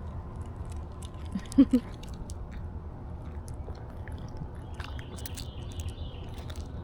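A dog lapping water, heard as a run of small irregular clicks. About a second and a half in there is a short, loud pitched sound.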